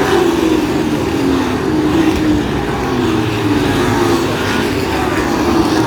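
A field of short-track pro trucks racing, several engines running hard at once, their pitches rising and falling as the trucks lap the track.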